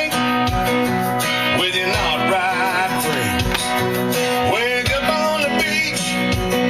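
Country song with a singing voice and acoustic guitar playing through the truck's Bose stereo.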